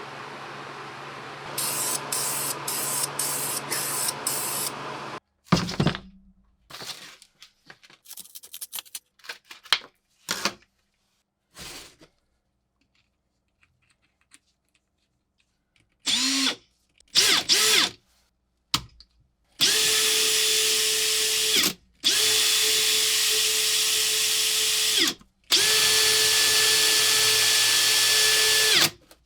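A small electric power tool runs in three long bursts of several seconds each with a steady whine, stopping briefly between them. Before that come a few seconds of steady running and then scattered clicks and knocks of handling.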